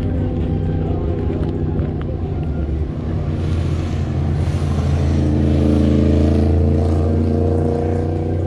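Muscle car engine running with a deep, steady note; it grows louder and fuller from about three seconds in, peaks a little past the middle, then eases slightly.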